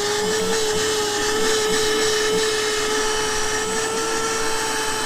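A high-speed electric motor, like a power tool's, running with a steady high-pitched whine that starts abruptly.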